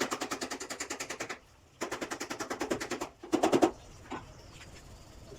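A power tool hammering rapidly, about fifteen blows a second. It runs in two bursts of about a second each, then a shorter, louder burst.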